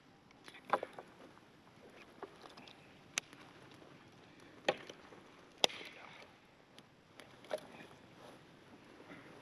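Scattered light clicks and knocks, about seven over several seconds, each short and sharp, over a faint steady background.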